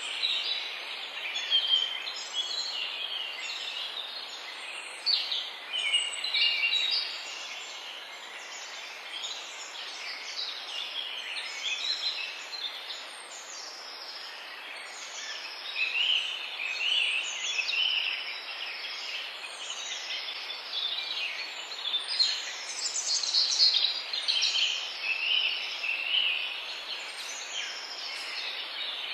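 Several songbirds singing at once, a dense chorus of short, high chirps and trills that overlap continuously, over a steady background hiss.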